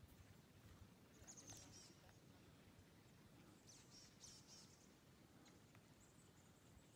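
Faint high-pitched bird chirps over near-silent forest quiet, in short clusters about a second in, around the middle, and again near the end.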